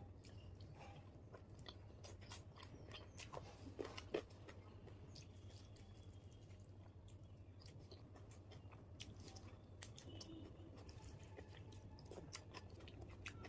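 Quiet, close-up chewing and wet mouth clicks of someone eating luchi with chicken curry, a little louder about four seconds in, over a steady low hum.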